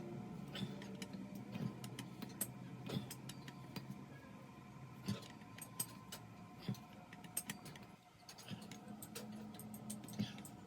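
Irregular light clicks and knocks over a steady low machine hum.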